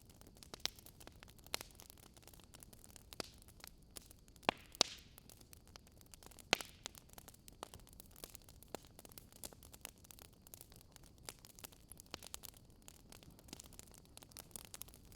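Wood fire crackling: irregular sharp pops and snaps, a few louder ones around the middle, over a faint steady hiss.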